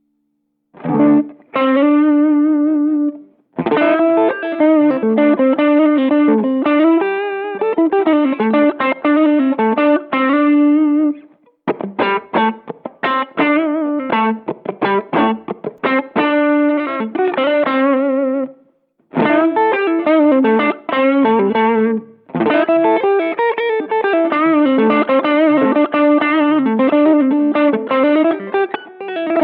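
Electric guitar played with overdrive through a Behringer TO100 Vintage Overdrive, a Tube Screamer-style green drive pedal. It plays phrases of single-note lead lines with some vibrato, broken by a few short pauses.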